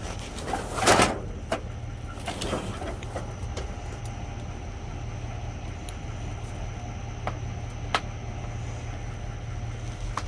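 Rummaging through discarded goods in a dumpster: a loud rustle about a second in, lighter rustling soon after, and a few sharp clicks, the sharpest near the end. A steady low hum runs underneath.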